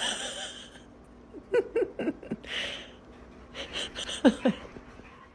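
Dog whimpering: short cries that fall in pitch, in two clusters, about a second and a half in and again about four seconds in.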